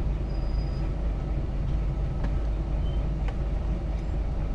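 Scania R420 truck's inline-six diesel engine running steadily, a continuous low sound with a few faint clicks over it.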